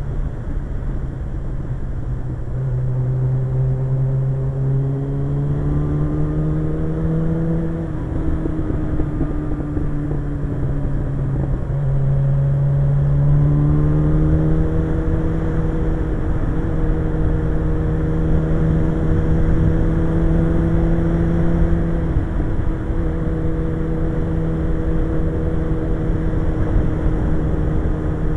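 Suzuki GSX-R 1100's inline-four engine under way, its pitch climbing as the bike accelerates, easing off, climbing again, then holding steady at a cruise for the second half, over a low rush of wind noise.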